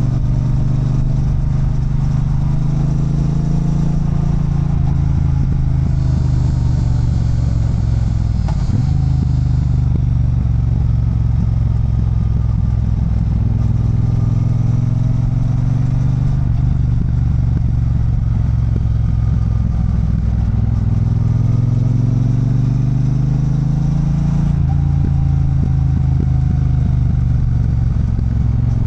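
Triumph Bonneville Bobber's 1200 cc parallel-twin engine running on the move, its pitch rising and falling slowly as the revs change through the bends.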